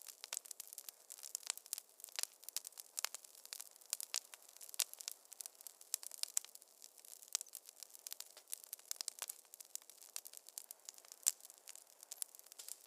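Wood fire crackling in a fireplace: a steady stream of sharp, irregular pops and snaps over a faint hiss.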